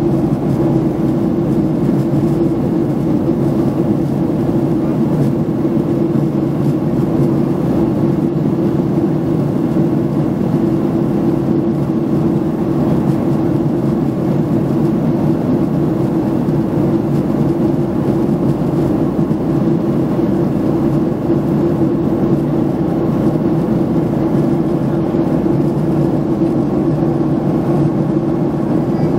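Steady roar of jet engines and rushing air heard inside an airliner's passenger cabin, unchanging throughout.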